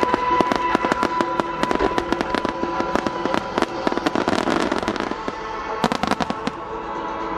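Fireworks bursting in quick succession, sharp bangs and crackles, over music playing through loudspeakers. A dense cluster of bangs comes about six seconds in.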